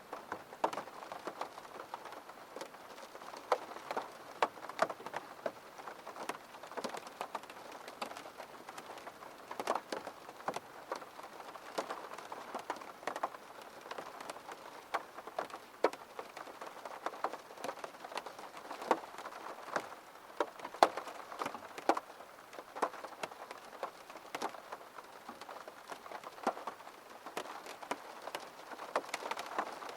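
Rain on a window: a steady patter with many separate drops ticking against the glass at irregular intervals.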